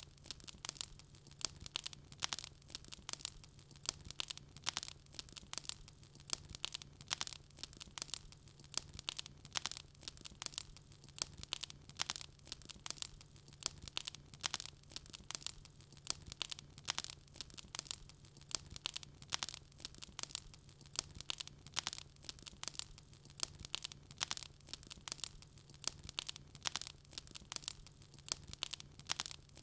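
Wood fire crackling in a fireplace: a dense, irregular stream of sharp pops and snaps over a faint steady low hum.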